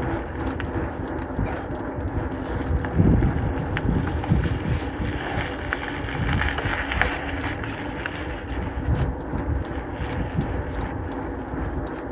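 Mountain bike being ridden along a road: steady rolling noise with scattered light clicks and rattles.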